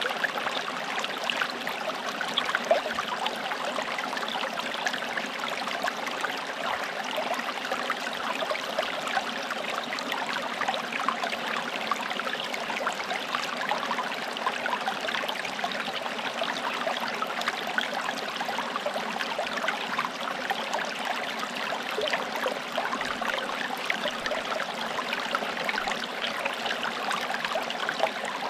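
Small forest stream flowing steadily over stones, a continuous babble of small splashes and trickles.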